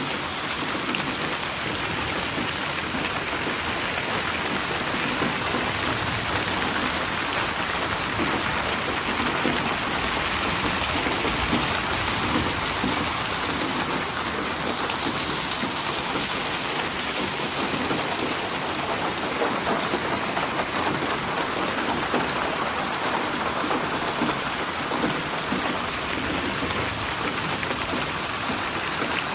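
Steady rain falling: an even, unbroken hiss of many drops on surfaces.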